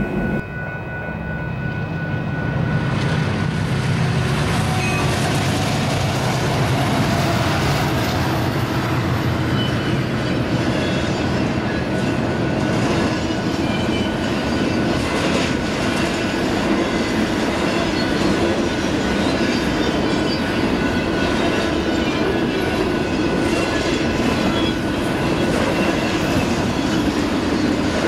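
Union Pacific freight train passing close by: a steady rumble of wheels on rail that builds over the first few seconds and then holds loud.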